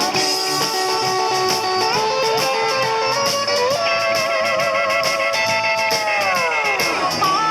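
Band playing an instrumental break: a lead guitar holds long notes, bending them up and shaking them with vibrato, then lets one slide down near the end, over steady cymbal beats.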